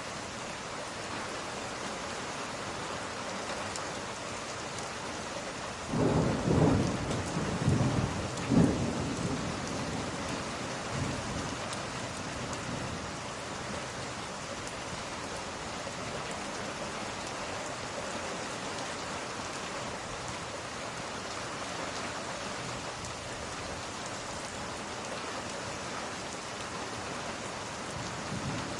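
Steady rain falling, with a thunderclap about six seconds in: a low rumble that swells twice and dies away over several seconds.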